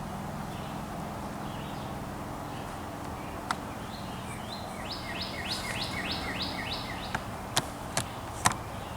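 A songbird sings a quick run of about eight repeated high chirping notes over a steady outdoor background hiss. A few sharp clicks come before and after the song.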